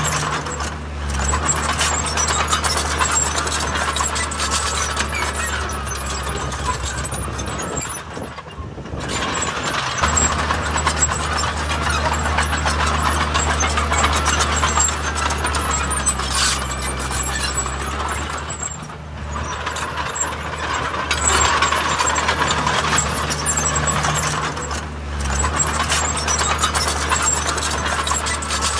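Heavy diesel earthmoving machinery running hard, with a continuous metallic clatter and rattle over the steady engine note. The engine eases off briefly a few times before picking up again.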